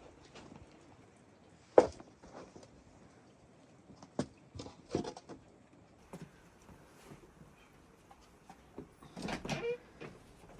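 Scattered knocks and clatters: one sharp knock about two seconds in is the loudest, a few lighter knocks follow, and a short burst of clattering comes near the end.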